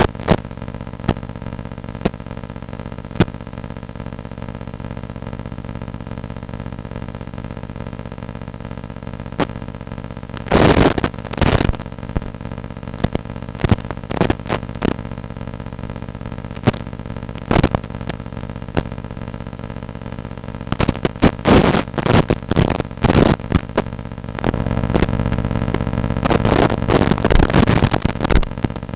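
A pack of firecrackers going off: scattered single sharp bangs, then clusters of rapid crackling pops about a third of the way in and again over the last several seconds. A steady droning hum lies under it.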